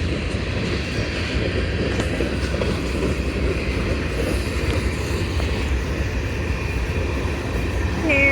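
CSX freight train rolling past, a steady rumble of wheels and cars on the rails.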